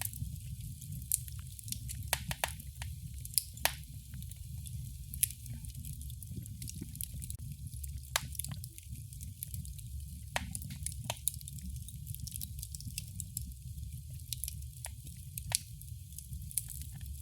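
Wood fire in a fireplace crackling: irregular sharp pops and snaps, a few louder than the rest, over a steady low rumble of the burning.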